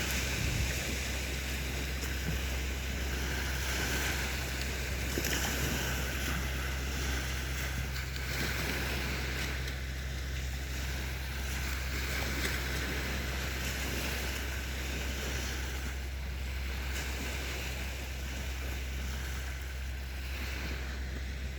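Sea waves washing onto a beach: a continuous wash of surf that swells and eases every few seconds, over a steady low rumble.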